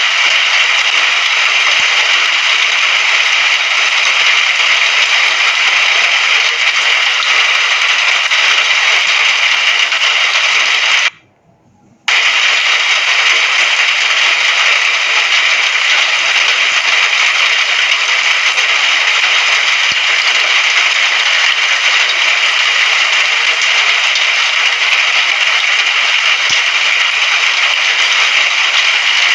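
Steady hiss of rainfall, cutting out completely for about a second around eleven seconds in before resuming.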